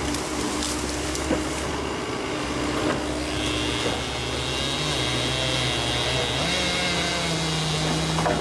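Volvo ECR145EL excavator running under load with its hydraulics working. A steady high whine joins in about three seconds in, and the engine note steps up slightly near the end.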